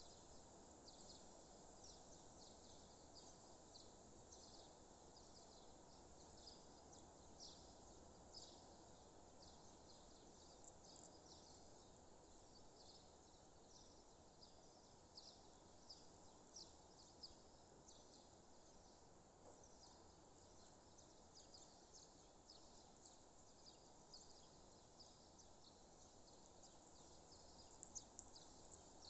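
Faint chorus of many small birds chirping, short quick calls overlapping throughout, over a low steady background hum.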